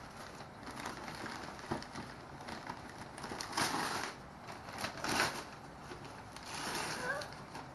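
Wrapping paper rustling and tearing in short bursts as a gift is unwrapped, loudest about three and a half and five seconds in.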